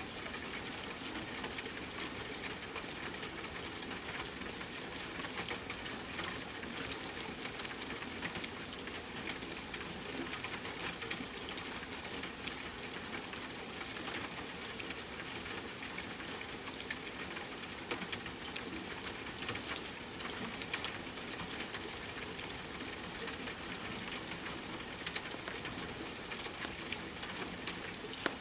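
Steady rain mixed with a fireplace crackling: an even hiss with frequent small sharp pops and ticks throughout.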